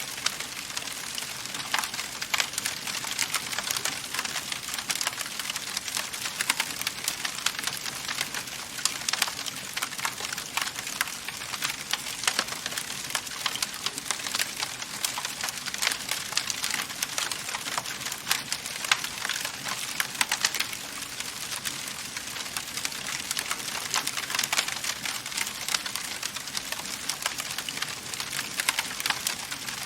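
Wood fire in a fireplace crackling steadily: a constant hiss dense with small sharp pops and snaps, the occasional louder crack.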